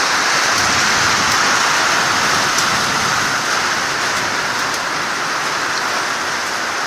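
Heavy rain pouring down in a summer storm, a steady even downpour.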